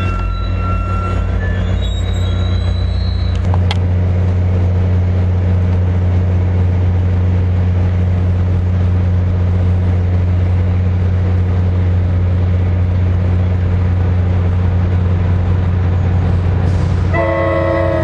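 Commuter trains at a station: at first a passing train with faint high wheel squeal, then a diesel-hauled Metro-North train with a GP40FH-2 locomotive, its engine running with a steady low drone. Near the end a train horn sounds with several tones at once.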